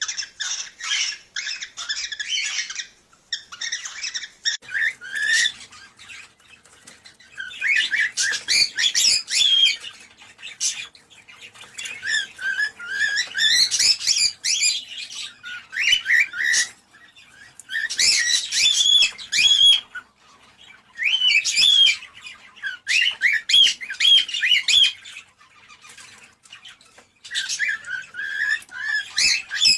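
Cockatiels chattering and warbling in quick, high chirps, in bursts of one to three seconds with short pauses between.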